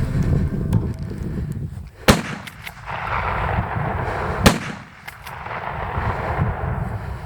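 Two gunshots about two and a half seconds apart, fired at a coyote at long range.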